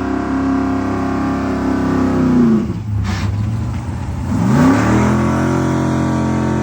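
A motor running steadily. Its pitch drops away about two and a half seconds in and climbs back up to the same steady pitch about two seconds later, with a short rushing burst in the dip.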